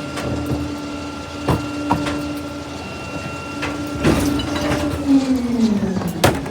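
Garbage truck working: a steady mechanical whine with several sharp metallic clanks and knocks. From about five seconds in, the whine falls in pitch as the truck winds down, and it ends with a couple of clanks.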